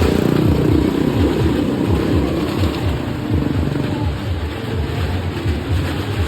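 Motorcycle engine running, with a low, even throb of several pulses a second.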